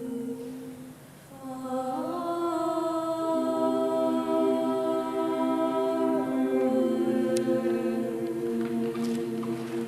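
Student choir singing sustained held chords. A chord dies away about a second in, then a new chord swells in with voices sliding up into it and holds.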